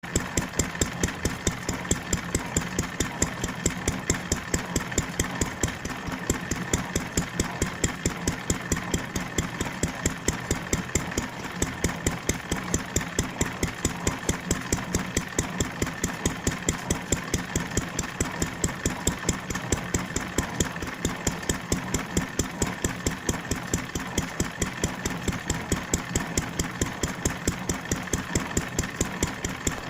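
Old stationary engine running steadily while driving a threshing machine, its firing strokes a regular beat of about four sharp pops a second over a steady hum.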